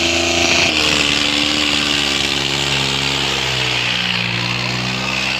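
Tractor diesel engine running hard, its pitch dropping about a second in and shifting again around three and a half seconds in, over a steady hiss.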